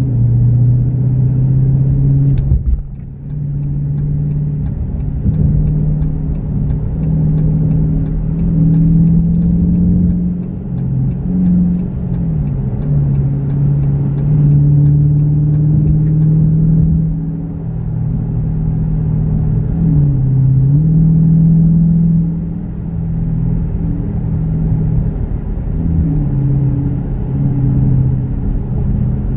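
Dodge Challenger R/T's V8 engine running at freeway speed with road rumble, heard from inside the cabin; the engine note dips and climbs back in pitch a few times as the throttle and revs change.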